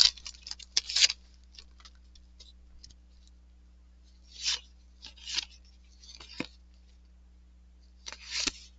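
Cardboard trading cards sliding and rubbing against one another as a stack is flipped through: light ticks at first, then about four short scraping swishes in the second half. A faint steady hum sits underneath.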